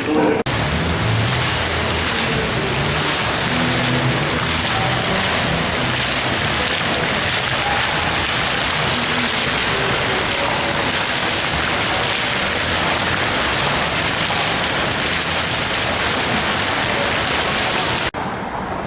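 Timed water fountain running: a steady, loud rush of splashing, falling water, with faint voices underneath. It cuts off suddenly near the end.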